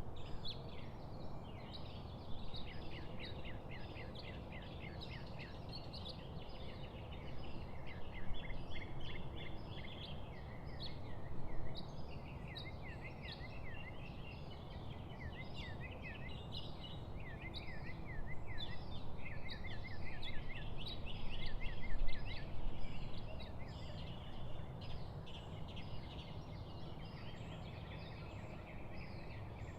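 A chorus of small songbirds chirping and twittering, many quick overlapping notes and short rising-and-falling calls, over a steady low background rush.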